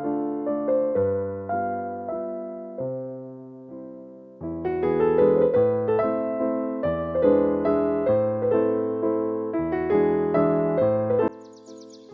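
Background piano music, a gentle classical-style piece with melody notes over low bass notes; it softens for a couple of seconds, swells again, and cuts off suddenly near the end, leaving a faint high hiss.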